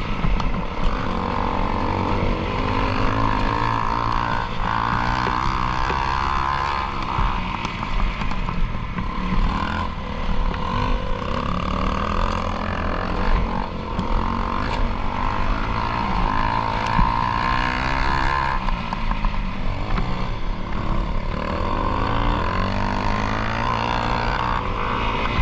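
Enduro motorcycle engine running under load on a trail ride, its revs rising and falling again and again with throttle and gear changes.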